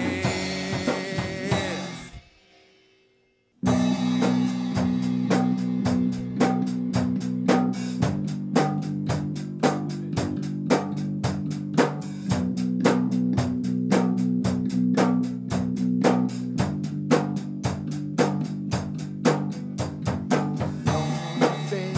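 Live rock band music. A song's final chords die away to near silence about two seconds in, and a second or so later a new song starts with a steady drum beat, guitar and bass, the bass note changing about every four seconds.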